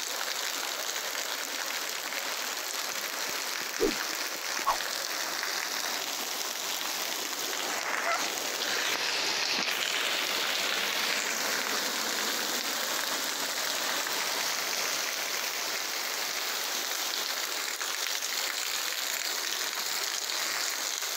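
Heavy rain falling, a steady hiss that brightens a little about halfway through, with two short clicks about four seconds in.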